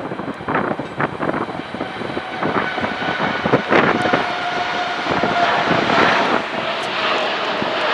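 Large jet airliner's engines running, with a steady whine that sets in a couple of seconds in, over gusty wind buffeting the microphone.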